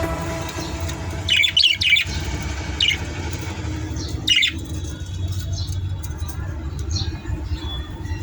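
Caged budgerigars chirping in short bursts, a few clusters of high chirps with quieter ones in between, over a steady low background rumble.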